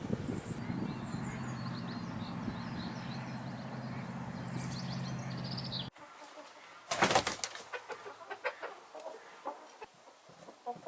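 Chickens clucking, with one loud squawk about seven seconds in followed by scattered short clucks. Before an abrupt cut about six seconds in, a steady low hum with small birds chirping above it.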